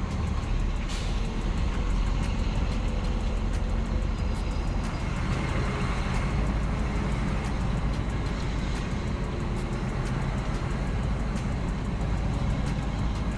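Old Scania truck's diesel engine running steadily under way in a low gear, heard from inside the cab with the window open.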